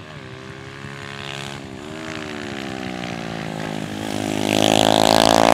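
Small pit bike engine accelerating. Its pitch dips briefly twice, as on a throttle change, then climbs steadily and grows louder over the last couple of seconds.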